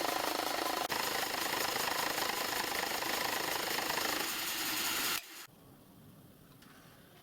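Metalworking machine running steadily with a dense mechanical noise, stopping abruptly about five seconds in and leaving faint background noise.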